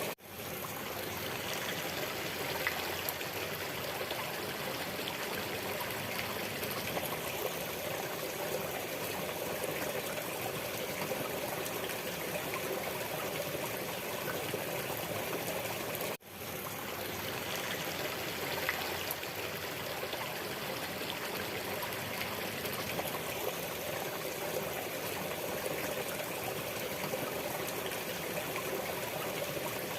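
Waterfall, water falling and splashing in a steady, even rush. The sound drops out briefly about halfway through and fades straight back in.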